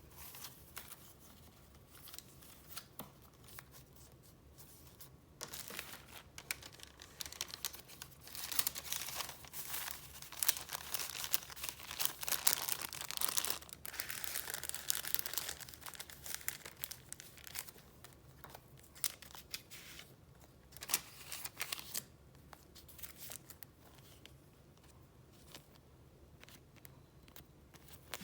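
Sheets of paper being handled and flipped through, rustling and crinkling with small clicks and taps. The handling is busiest in the middle and dies down to faint, occasional rustles near the end.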